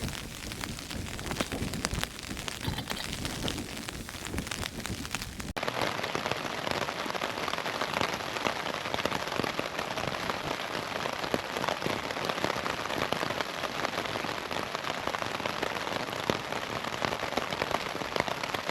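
Rain pattering on a Hilleberg tent's fabric, a dense hiss of many small drop ticks. In the first few seconds it comes with low rumbles; about five and a half seconds in the sound changes abruptly to a denser, steadier patter.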